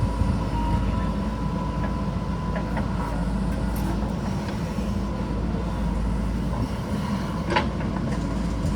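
JCB backhoe loader's diesel engine running steadily, with a thin steady whine above it and a single sharp knock near the end.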